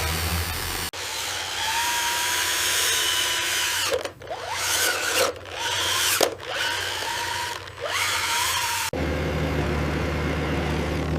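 A whining power-tool motor, like a drill, running with its pitch dipping and rising several times. It switches in and out suddenly against a steady low hum.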